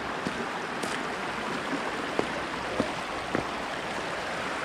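Steady rush of a river and waterfall, with a few light knocks about two to three and a half seconds in.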